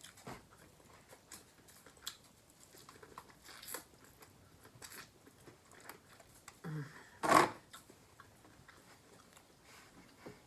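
Close-up eating sounds from a seafood boil mukbang: soft chewing and mouth sounds with scattered small clicks, and one louder sharp sound about seven seconds in.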